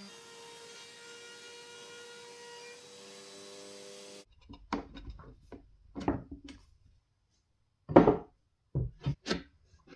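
A steady hum with several pitched tones cuts off about four seconds in, followed by a series of wooden knocks and rubs from plywood parts being handled, the loudest knock about eight seconds in.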